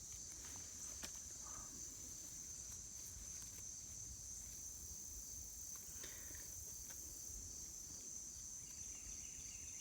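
Steady high-pitched drone of an evening insect chorus, crickets or similar, with a few faint clicks and rustles of netting being handled.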